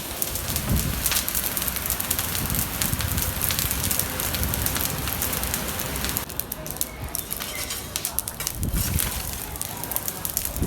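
Cooking fire crackling with a steady hiss and many sharp pops. The hiss thins out about six seconds in, leaving sparser crackles.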